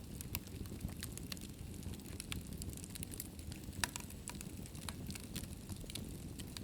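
Wood fire burning in a fireplace: a steady low rumble of flames with irregular sharp crackles and pops, one louder pop a little before four seconds in.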